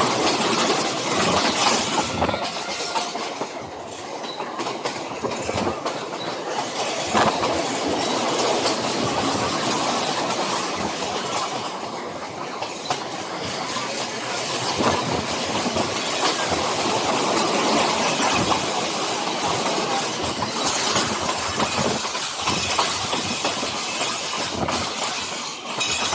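Passenger train running along the track, heard from inside a carriage by an open window: a steady rolling rush with the wheels clattering irregularly on the rails.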